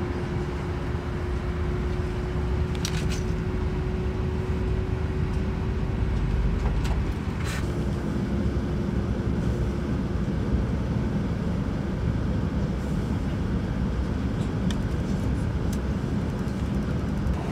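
Cabin running noise of an E8 series Yamagata Shinkansen train in motion: a steady low rumble with a faint steady hum that fades out about ten seconds in, and a few light clicks around three and seven seconds in.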